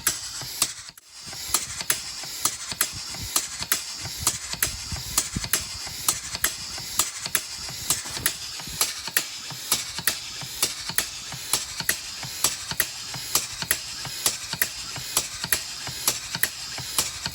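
Two-cylinder push-pull compressed air engine running: its valves click open and shut at about two to three a second over a steady hiss of compressed air. The sound drops away briefly about a second in, then picks up again.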